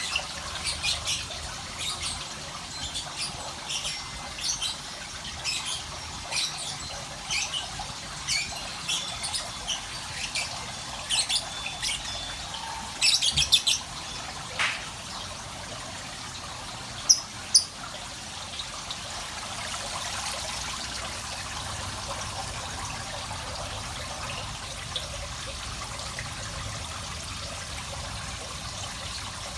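Small birds chirping in short, high calls over a steady trickle of running water. The chirps come thick for about the first eighteen seconds, then thin to near nothing while the water runs on.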